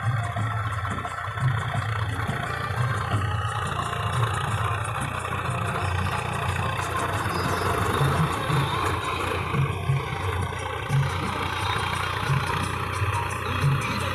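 Swaraj 855 tractor's diesel engine running steadily, with an uneven low pulsing throb.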